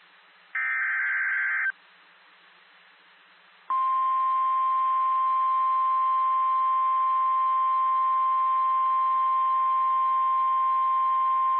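NOAA Weather Radio alert broadcast. About half a second in comes a one-second buzzing data burst, the digital SAME header that coded receivers decode. After a stretch of faint radio hiss, the steady single-pitch 1050 Hz warning alarm tone starts almost four seconds in and holds.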